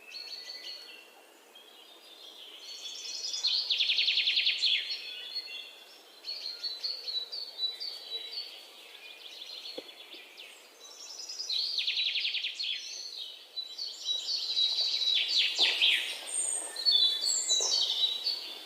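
Small birds chirping and singing, with several birds calling over one another; fast trills swell up twice, about four seconds in and again about twelve seconds in, and a burst of loud sharp notes comes near the end.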